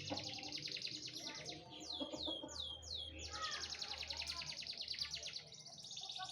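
Domestic canary singing a long song: fast high trills alternating with runs of repeated down-slurred notes, with a short dip about five and a half seconds in.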